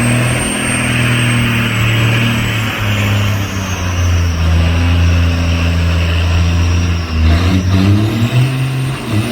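Semi-truck diesel engine held at high revs during a burnout, over a steady hiss. The engine note shifts about three seconds in, then breaks and changes about seven seconds in.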